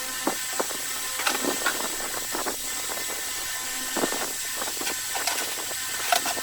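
Scattered light clicks and knocks of parts and tools being handled on a workbench, over a steady background hiss with a faint high whine.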